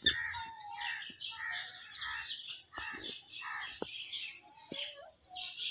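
Birds chirping and chattering in quick, repeated high calls, with a few sharp clicks in between.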